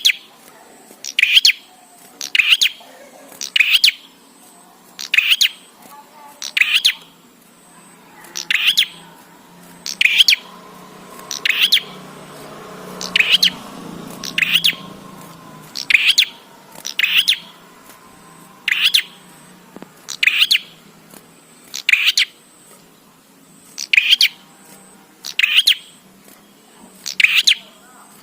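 Prenjak songbird calling: short, sharp, high chirps repeated at a steady pace, about one every second and a half.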